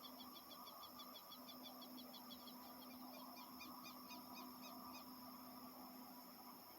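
A small bird's fast series of short, high chirps, about six or seven a second, turning into quicker down-slurred notes before stopping about five seconds in. Underneath, a faint steady hum and a high, even insect drone.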